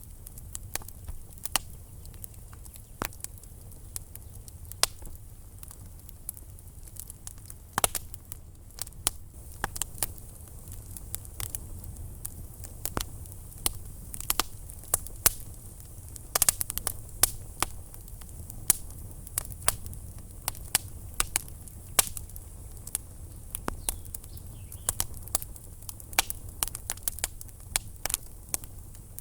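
Wood fire burning in a fireplace, crackling and popping in irregular sharp snaps over a low steady rumble of the flames, with a denser cluster of pops about sixteen seconds in.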